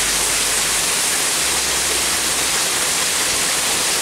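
Heavy tropical-storm rain falling in a steady downpour, a dense even hiss, with water pouring off the edge of the patio roof.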